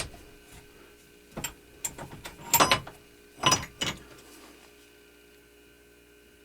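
A few short scrapes and knocks from metal work being handled on the bench, the loudest two in the middle, followed by a faint steady hum.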